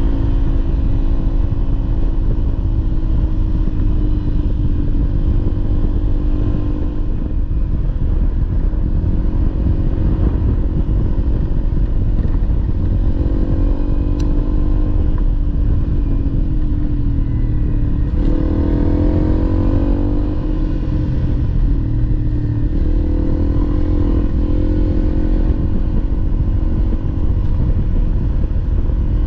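Honda CRF300L's single-cylinder four-stroke engine running under way on a dirt trail, its revs rising and falling with the throttle; about two-thirds of the way through the revs drop briefly and then climb again.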